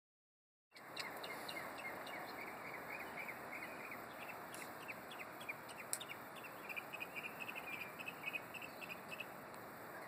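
A bird calling, unidentified: quick runs of short, high chirps repeated again and again, stopping near the end, over a steady background hiss. A single sharp click about six seconds in.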